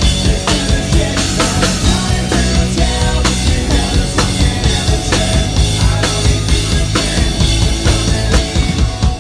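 Live rock band playing, a drum kit keeping a steady, driving beat over sustained bass and instrument tones.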